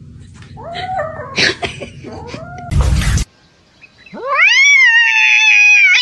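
Domestic cat meowing in short calls, then a short loud noisy burst about three seconds in, followed by one long drawn-out yowl that rises and then holds its pitch.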